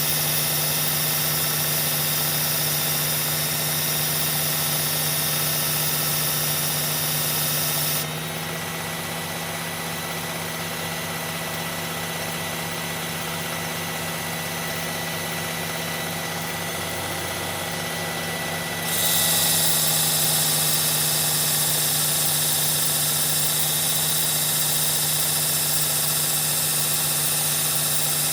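Electric belt knife sharpener's motor running steadily with a hum and a thin whine. A knife blade grinds against the abrasive belt with a loud hiss for the first several seconds, eases off for a stretch in the middle, then grinds again from about two-thirds of the way in.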